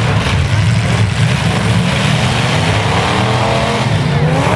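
Engines of full-size demolition derby trucks revving hard, a loud continuous rumble. Near the end, one engine's pitch climbs and falls as it is revved.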